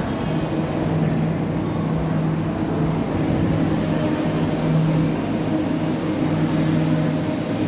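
Train running: a steady rumble with a low hum that drops out briefly a few times, and a faint high whine joining about two seconds in.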